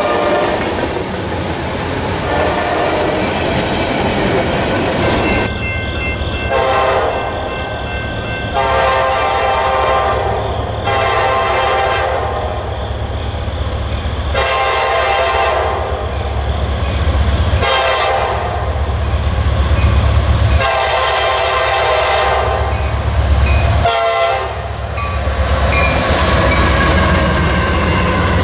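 A locomotive's multi-note air horn sounds a series of long blasts, about two to three seconds each, with a shorter blast near the end, over the steady low rumble of a passing train.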